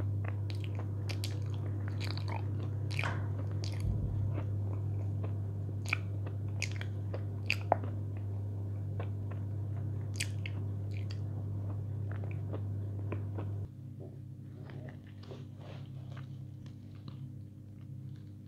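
Close-up chewing of crunchy food, with irregular wet crunches and crackles in the mouth. Under it runs a steady low hum that cuts off about two-thirds of the way through.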